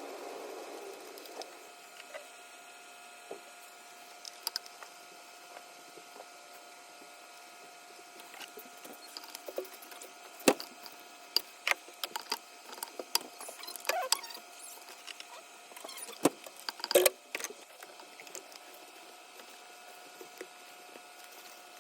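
Irregular clicks and knocks of hand tools, a spark plug socket and extension, and plug wires being handled in the engine bay while spark plugs are fitted, over a faint steady hum. A couple of sharper knocks stand out partway through.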